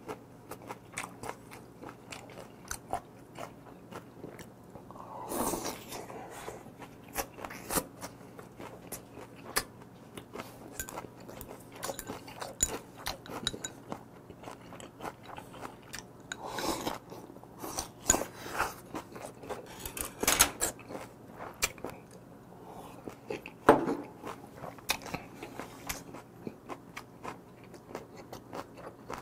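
Close-miked chewing and crunching of raw squid and crisp, ice-cold vegetables from a squid mulhoe. A steady run of wet mouth clicks, with a few louder, longer noises scattered through.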